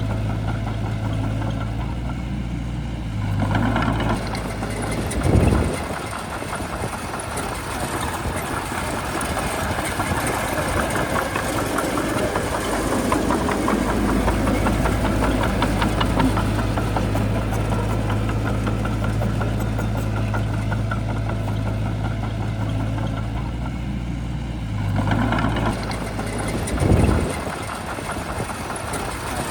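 Heavy diesel engine of a Shantui crawler bulldozer, going from a steady idle to a louder working note about three seconds in and dropping back near the end. A heavy thump comes about five seconds in and another near the end.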